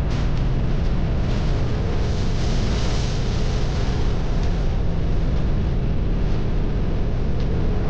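Harley-Davidson motorcycle's V-twin engine running steadily at road speed, with wind rushing over the microphone.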